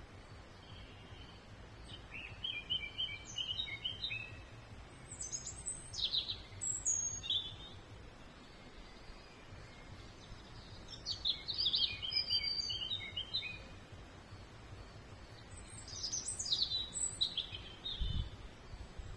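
A songbird singing three separate phrases of high chirps and trills, several seconds apart, over a steady low background rumble. A short low thump comes near the end.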